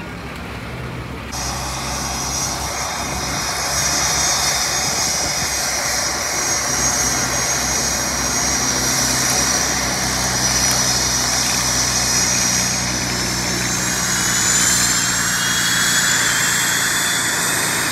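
P-51D Mustang's Packard Merlin V-12 engine and propeller running, growing louder over the first few seconds and then holding steady. A high whine rises in pitch near the end.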